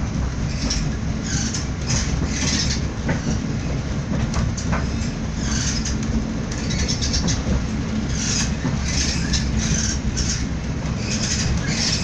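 Passenger train running along the track, heard from inside the carriage: a steady low rumble of wheels on the rails, with a rushing hiss that swells and fades every second or so.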